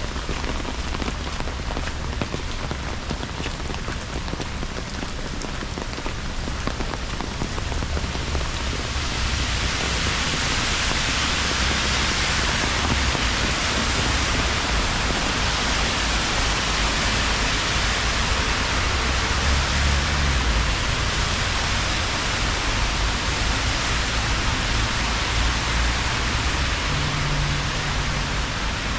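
Steady rain falling, its hiss growing louder and brighter about nine seconds in, over a low, steady rumble.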